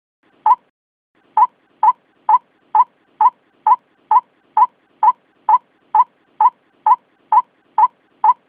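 White-breasted waterhen calling: short, identical notes repeated at an even pace of about two a second. A single note comes first, then after a brief pause the steady series of about sixteen more follows.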